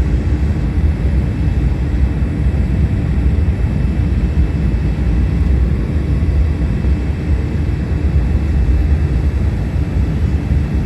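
Jet airliner noise: a steady low rumble that does not change in level.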